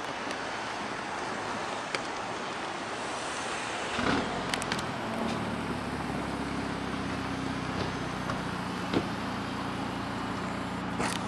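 Steady rumble of a passenger train's rear cars rolling away. About four seconds in, a steady low engine hum starts and carries on, with a few light clicks.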